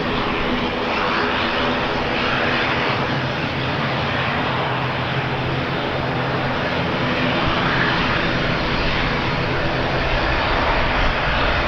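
Aircraft engines running steadily, with a few faint steady low tones under the noise and wind buffeting the microphone.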